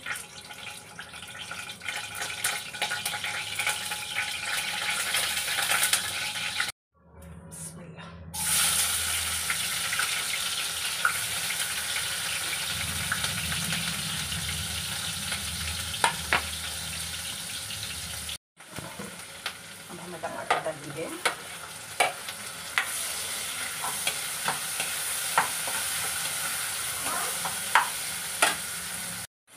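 Garlic and chopped vegetables sizzling in hot oil in a non-stick kadai, with a spoon stirring and clicking against the pan. The sound cuts out briefly twice.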